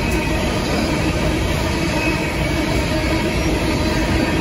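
Freight train of hopper cars rolling past: a steady rumble of steel wheels on rail.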